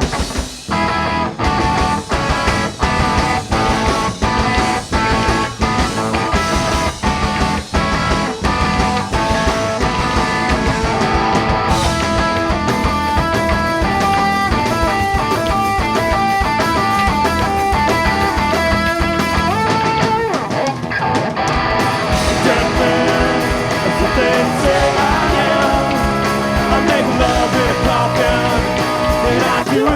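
A live rock band playing an instrumental passage: electric guitars, bass and drums, with strong even drum hits early on and a busy guitar line over held chords later.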